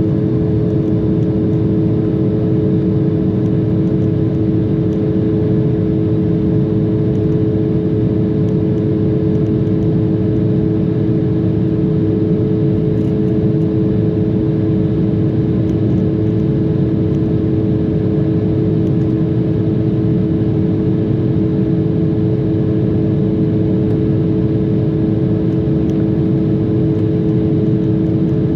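Steady in-flight cabin noise of an Embraer regional jet: the dense rush of engines and airflow with two unchanging droning tones on top.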